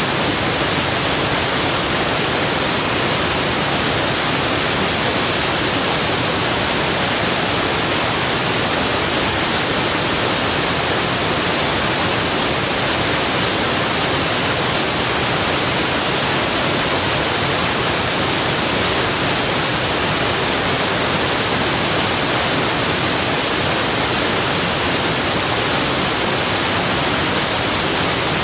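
Rushing water: a steady, unchanging hiss, strong in the high pitches.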